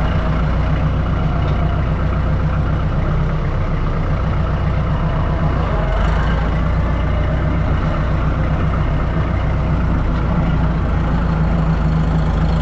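Kubota tractor's diesel engine running steadily as the tractor drives along in high gear, a constant low hum with no change in pitch.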